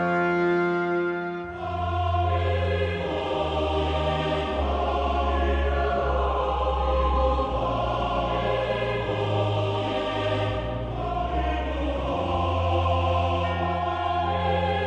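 Background music: a synthesized choir-and-strings piece with a steady low bass, after a held horn-like note in the first second and a half.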